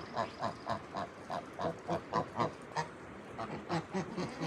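Goats grazing close by, cropping and chewing fresh grass in a quick, even rhythm of about three to four bites a second.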